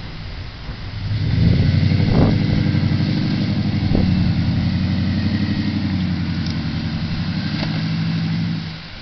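Lifted Dodge Mega Cab pickup's engine running as the truck drives. It swells up about a second in, holds a steady note, and fades out shortly before the end, with a couple of short knocks along the way.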